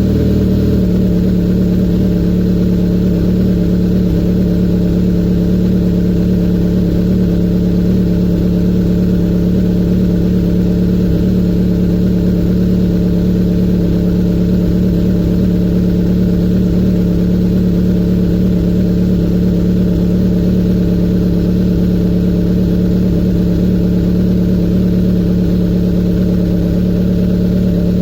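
Kawasaki Z900's inline-four engine idling steadily through a full Akrapovic exhaust with the dB killer removed, warming up after a cold start with no revving.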